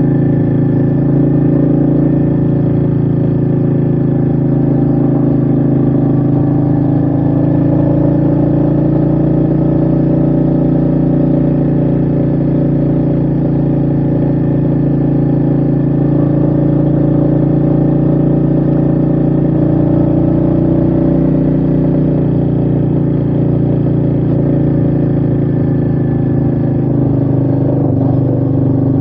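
Royal Enfield Meteor 350's single-cylinder engine running under way at fairly steady revs, its pitch rising and falling slightly, with wind noise underneath.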